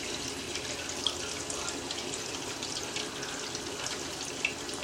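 Water running steadily into a filling container, with a few small drips or splashes.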